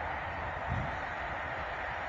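Distant Newag Griffin EU160 electric locomotive and its passenger coaches approaching: a steady rumble and hiss, with a brief low thump a little under a second in.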